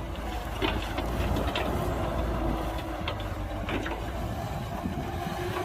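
Heavy earthmoving machinery's diesel engine running steadily, with several short metallic clanks and rattles.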